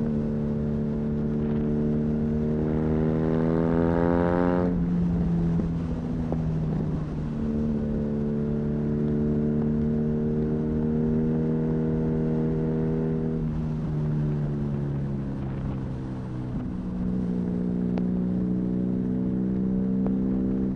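BMW R nineT's boxer twin engine through an Arrow high-mounted exhaust, rising in revs for about two seconds and then falling sharply at an upshift about five seconds in. It runs steady at cruising speed, the revs sag around fourteen seconds in, and they settle steady again near the end.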